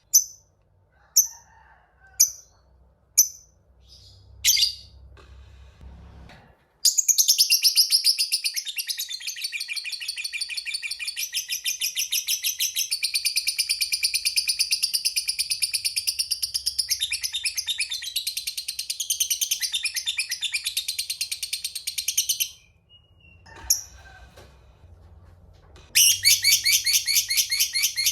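Lovebird gives a few single sharp chirps, then a long, fast chattering trill, the prized 'ngekek panjang', running about fifteen seconds. It breaks off, gives one more chirp, and starts the rapid chatter again near the end.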